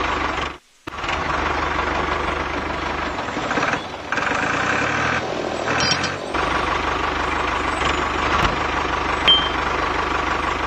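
A small motor on a homemade mini tractor running steadily, with a held whine and a low rapid pulsing. The sound cuts out briefly near the start and shifts twice, where clips are joined.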